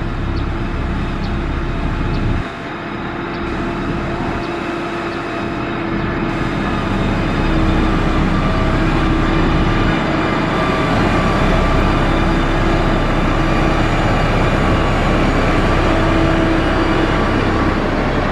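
Motor grader's diesel engine running steadily, its level dipping briefly about two seconds in and then rising and holding louder from about seven seconds in.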